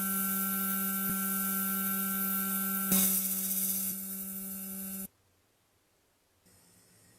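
A steady electric hum with a few sharp clicks, cutting off suddenly about five seconds in.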